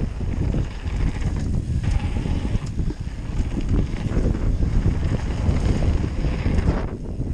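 Mountain bike tyres rumbling over a dirt jump trail, with wind buffeting a GoPro's microphone and frequent rattles and knocks from the bike.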